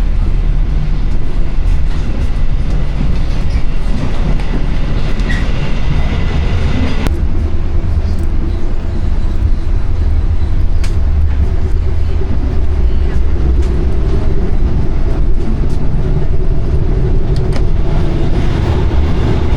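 Argo Bromo Anggrek passenger train running at speed, heard from inside the carriages: a steady low running noise of wheels on rails with a few faint clicks.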